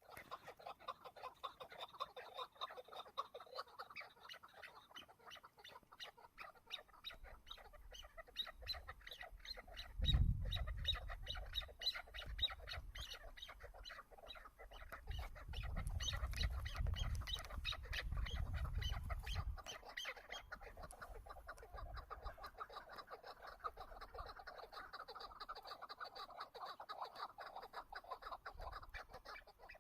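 Chukar partridge calling: long runs of rapid repeated notes. A low rumble comes in about a third of the way through and again for a few seconds in the middle.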